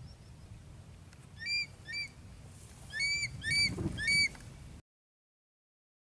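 A bird calling: five short, high-pitched notes, each sliding quickly upward, given as two and then three. A faint low rumble runs under them, and the sound cuts off abruptly near the end.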